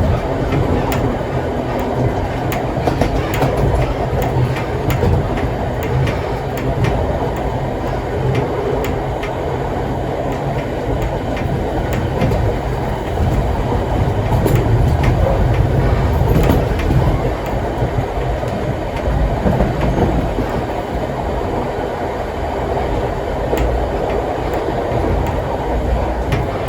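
Vintage railway carriage running along the track: a steady rumble of the wheels on the rails, with frequent sharp clicks and knocks from the wheels and running gear.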